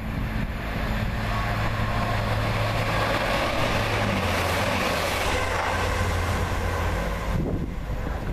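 Multiple-unit passenger train passing close by at speed: a low hum and rushing wheel and rail noise that builds as it approaches, is loudest through the middle and eases off near the end.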